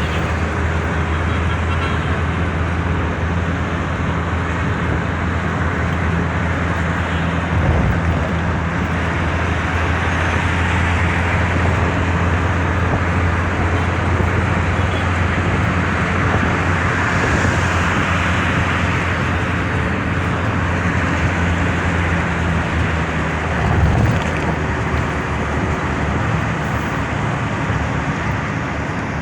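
Road traffic noise: a steady low engine hum with tyre and road noise, and two brief thumps, one about eight seconds in and one about twenty-four seconds in.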